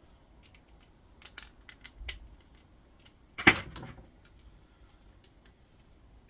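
Small steel and brass parts and a hand tool clicking and clinking as a brass piece is worked loose from a steel part. About three and a half seconds in comes one much louder metallic clank that rings briefly.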